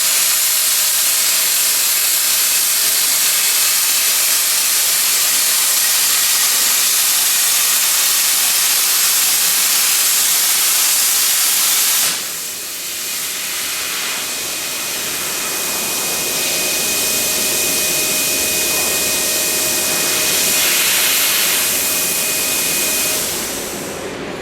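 Cutting torch of a portable CNC cutting machine, hissing steadily and loudly as it cuts. About halfway through, the hiss drops and changes, and a steady high whine runs over it until near the end.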